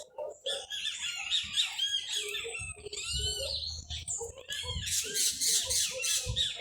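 Many kinds of small birds singing and calling at once: a dense chorus of short, overlapping chirps and whistles.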